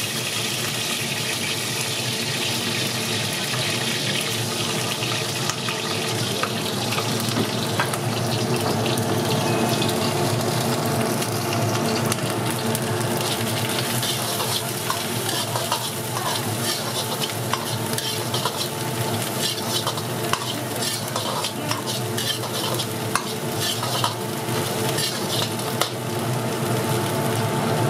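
Food for chicken biryani frying and sizzling in a large pot while a metal ladle stirs it, scraping and clicking against the pot many times over a steady frying hiss.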